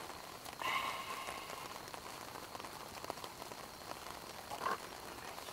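Wood campfire crackling, with many small pops and snaps. About half a second in, a brief pitched whistle lasts about a second.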